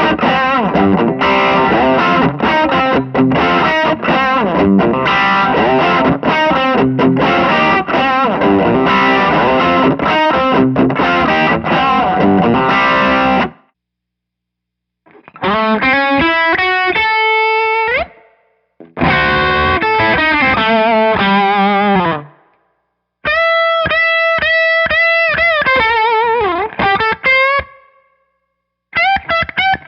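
Electric guitar through an overdriven tube amp: dense distorted chord riffing for about 13 seconds, which stops abruptly. Then come several short single-note lead phrases with string bends and vibrato, separated by brief silences.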